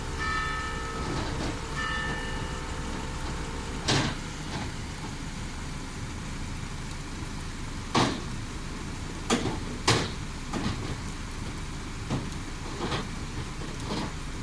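Steady heavy rain, with a bell tolling twice in the first two seconds. Several sharp knocks or thumps follow, the loudest around the middle.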